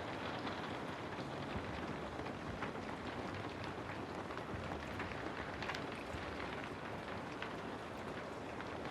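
Steady rain falling, an even hiss with scattered patter of individual drops.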